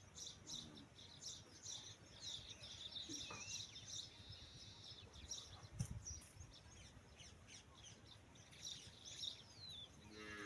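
Faint outdoor bird calls: many short chirps and trills all through, with a low thump about six seconds in. A farm animal's bleating call begins right at the end.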